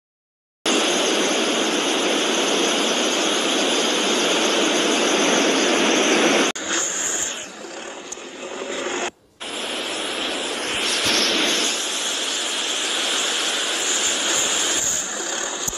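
Heavy hailstorm: a loud, dense, steady rushing hiss, heard in several clips joined with abrupt cuts and one brief dropout.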